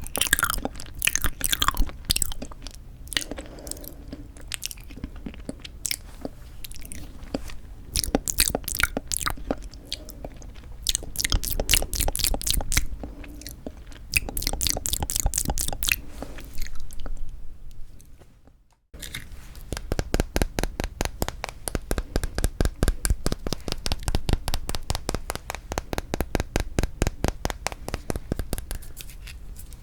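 Close-miked chewing and crunching of frozen yanggaeng (sweet red bean jelly), with many sharp crackles. After a brief cut to silence about two-thirds of the way in, the crunching comes back as a quick, even chewing rhythm.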